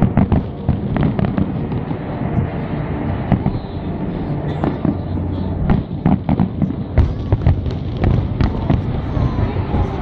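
Aerial fireworks display: shells bursting in an irregular series of sharp bangs and crackles, some in quick clusters, over a steady low background rumble.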